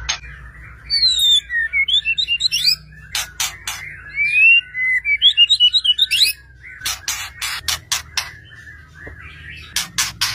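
White-rumped shama (murai batu) in full song: quick runs of clear whistled notes sliding up and down, broken by bursts of sharp, dry clicking notes.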